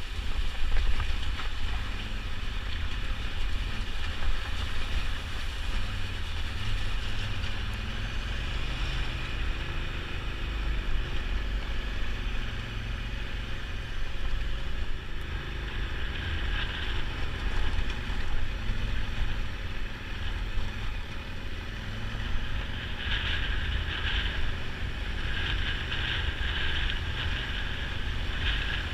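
Motorcycle engine running under way, rising and falling in pitch with the throttle, under heavy wind buffeting on the microphone.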